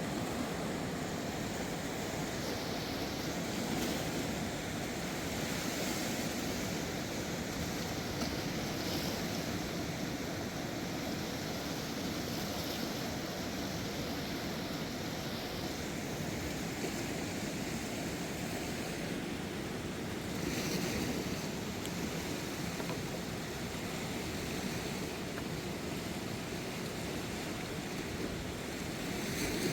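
Steady rushing of a river in flood, running high after heavy rain, with a few brief swells in the hiss.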